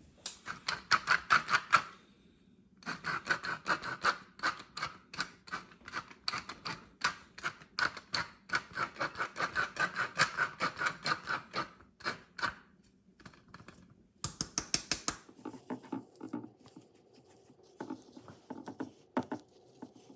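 A kitchen utensil tapping rapidly and rhythmically during food preparation, in long bursts of about five or six strokes a second that pause about 2 s and 12 s in. Softer, duller knocks follow near the end.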